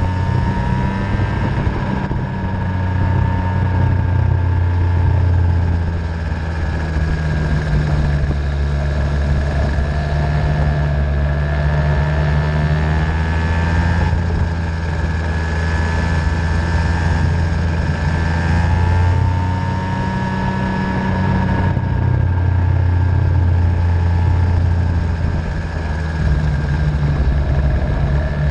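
Small 50cc Venom racing engine running on track, its high note rising and falling in pitch as it is ridden through the laps, over a steady low rumble.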